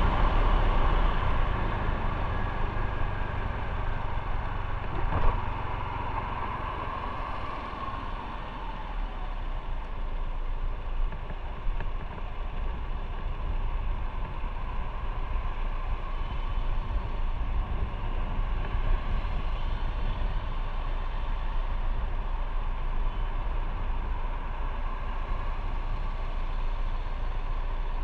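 Motorcycle running on the road: steady engine rumble mixed with road and wind noise, with a single short knock about five seconds in.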